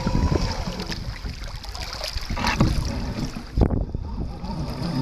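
Wind buffeting the microphone and water moving around a sea kayak, with two sharp knocks, about two and a half and three and a half seconds in.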